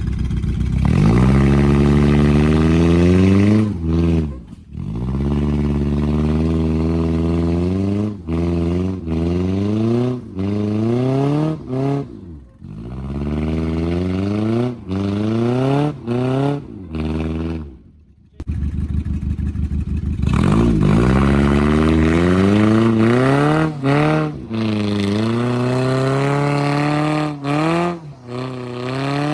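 Honda CR-V car engine revved hard over and over, the pitch climbing steeply and dropping back every second or two. The engine sound falls away sharply three times before picking up again.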